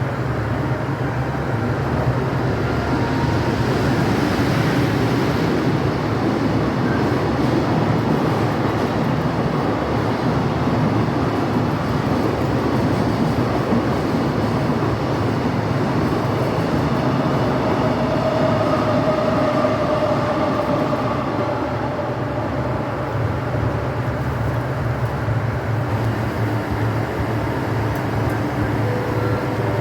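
KiHa 85 series diesel train running: a steady rumble of wheels on rail and engine. A higher whining tone rises over it for a few seconds midway, then fades.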